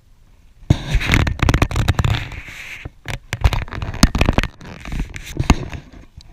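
Raindrops striking a GoPro's waterproof housing, a loud, dense, irregular crackle of taps that starts suddenly less than a second in.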